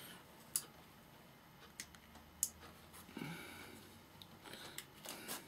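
A few sharp, irregular metal clicks and taps as long-nose pliers and small metal parts are handled on the amplifier's front-panel controls while a control nut is worked loose, with a short scrape near the middle.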